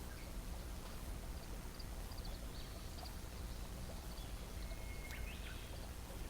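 Steady low outdoor background rumble, with a few faint, short, high chirps of small birds about two seconds in and again near the five-second mark.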